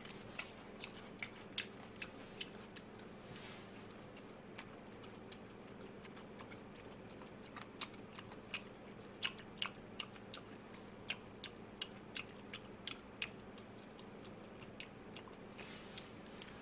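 A person chewing crispy fried food close to the microphone: irregular crunches and sharp clicks, coming thickest in the middle of the stretch.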